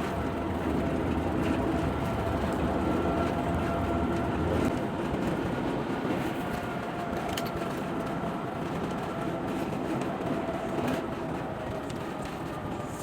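Steady road noise inside a moving car's cabin at freeway speed, a rumble with a faint steady whine over it. The deepest part of the rumble drops away about five seconds in.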